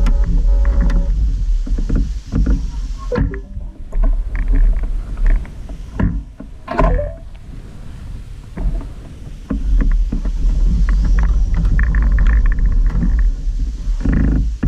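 Wind buffeting the microphone while riding a Gogoro 2 electric scooter, with rattles and knocks over it. The wind noise drops away briefly about three seconds in and again from about six to nine seconds in, then comes back strongly.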